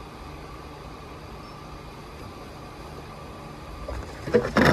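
Condensate pump on a mini split running steadily, pumping down the water poured into the drain pan, with a faint constant whine. A short burst of loud knocks and clatter near the end.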